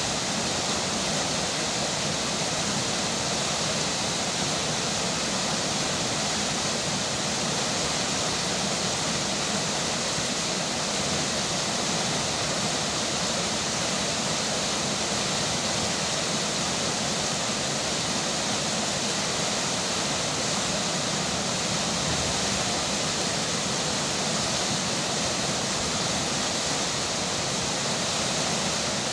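A river rushing steadily, mixed with falling rain: an even, unbroken hiss of water.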